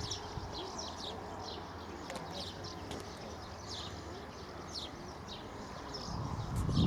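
Small songbirds chirping: short, high, falling notes repeated a few times a second. Wind rumbles on the microphone near the end.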